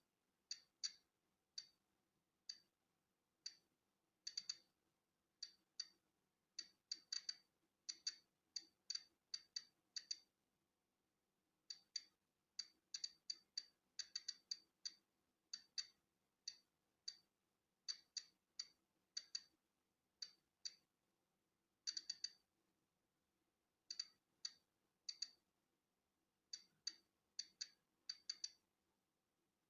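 Polon EKO-C digital Geiger counter clicking at natural background radiation levels: sharp, high clicks at random, irregular intervals, a little under two a second on average, sometimes bunched together and sometimes with gaps of a second or more. Each click is one ionizing particle detected.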